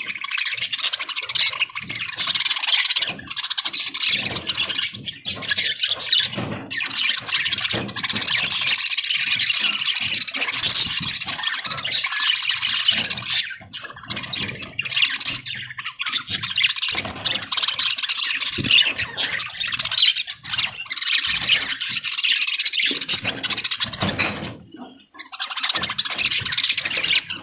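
A flock of budgies chattering and warbling without let-up, with a short lull about twenty-five seconds in.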